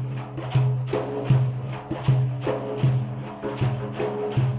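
Instrumental percussion interlude between sung verses: a frame drum with jingles beating a steady rhythm, a strong low-booming stroke about every three-quarters of a second with lighter strokes between.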